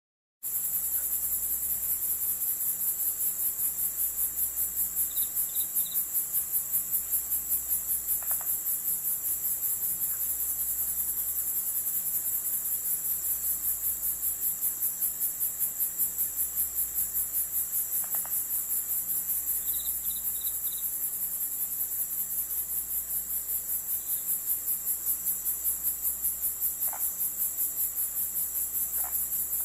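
Crickets chirping in a steady, high-pitched chorus that pulses about four times a second, starting just after a brief silence at the very start. A few faint short chirps come in twice, at about five and twenty seconds in.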